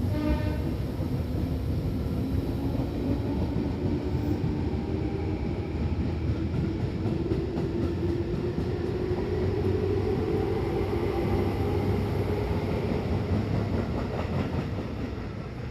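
Electric commuter train pulling out of a station, its running rumble steady while the traction motor whine climbs slowly in pitch as it gathers speed. A short tone is heard at the very start, and the sound fades near the end.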